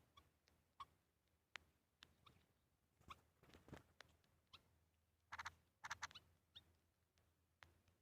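Faint, scattered short chirps and squeaks from small birds, with a couple of buzzier rapid calls just past the middle.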